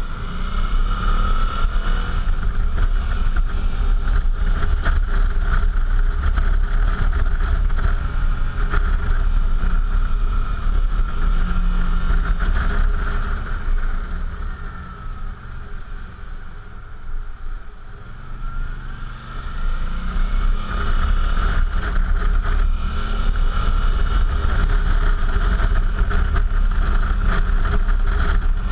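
Suzuki V-Strom motorcycle on the move, its V-twin engine running under a heavy low rumble of wind. Around the middle the sound drops away for a few seconds as the throttle eases, then builds again, rising in pitch.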